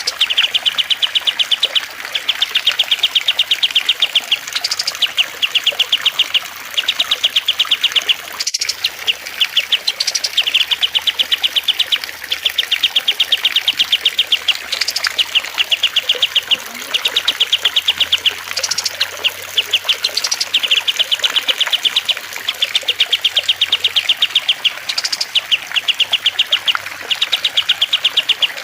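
Looped songbird recording: fast, even trills, each about a second and a half long and led by a short high rising note, repeating every couple of seconds over a steady hiss of trickling water. A single sharp click about a third of the way through.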